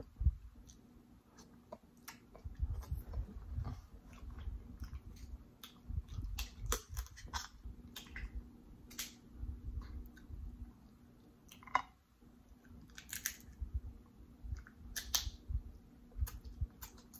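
A person chewing food close to the microphone, with irregular soft wet clicks and smacks of the mouth.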